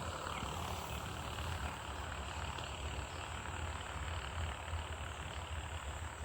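Steady low rumble of road traffic on the highway, with no pass-by swell, under a constant high chirring of crickets.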